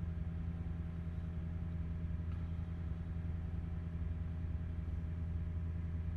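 A steady low mechanical hum of a running motor, even and unchanging throughout.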